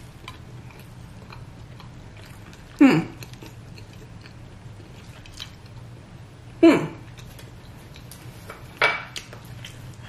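A person chewing a mouthful of beef-patty taco with the mouth closed, faint wet ticks, broken by three short hummed "mm" sounds falling in pitch, about three, seven and nine seconds in. A steady low room hum lies under it.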